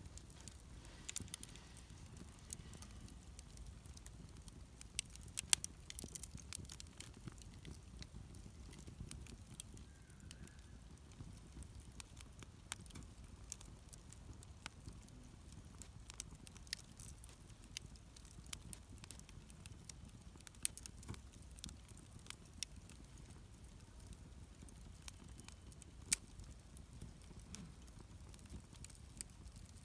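Wood campfire crackling: irregular small pops and snaps, a few louder, over a low steady rumble.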